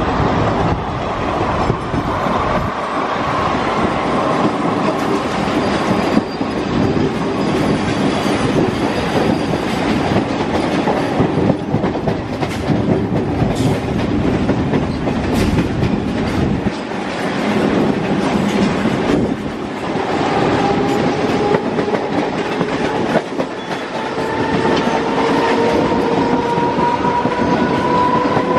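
Ride noise of a Mumbai suburban EMU local heard from its open doorway: steel wheels rumbling and clattering over rail joints and points, with clicks in the middle. Over the last several seconds a whine rises steadily in pitch.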